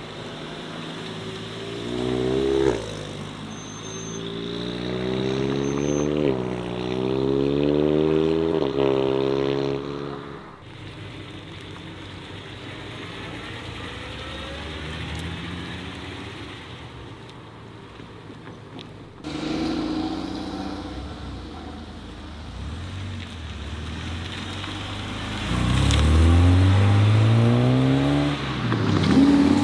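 Modified cars pulling away one after another, their engines revving and accelerating, with the pitch rising and falling back between pulls. The loudest and longest pull comes near the end.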